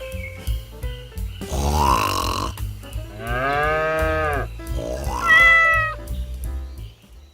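Several drawn-out animal-like calls over a steady low hum: a long, lower call that rises and falls in pitch in the middle, then a higher, shorter call about five seconds in.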